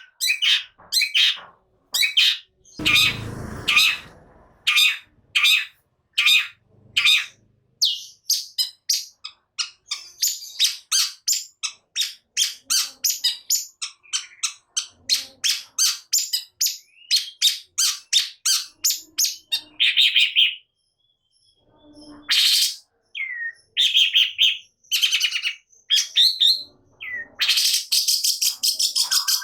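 Long-tailed shrike (cendet) singing in full song: rapid strings of short, sharp, high notes, a few each second, broken by a harsh rasping burst about three seconds in and a dense run of chattering near the end.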